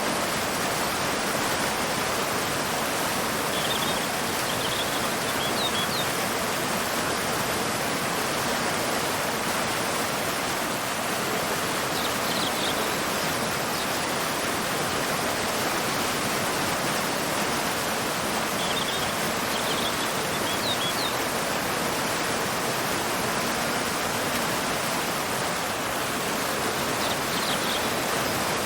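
Steady rushing of a waterfall pouring into a river, with a bird chirping briefly and high a few times over it.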